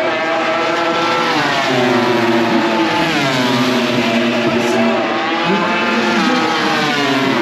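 MotoGP racing motorcycle engines revving through the gears, the engine note dropping and climbing again several times.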